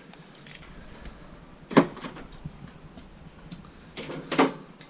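Three sharp knocks as scrap is handled: one about two seconds in, then two close together near the end.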